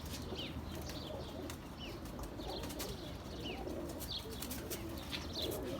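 Domestic pigeons cooing softly, with short high falling chirps recurring every second or so and a few scattered wing flaps.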